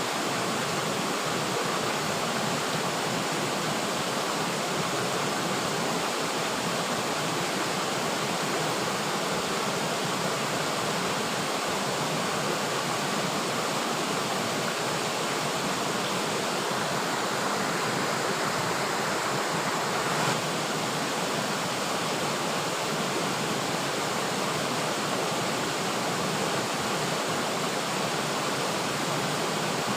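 River water flowing and rushing over rocks in a steady, even roar of noise that holds unchanged throughout, with one brief slight surge about twenty seconds in.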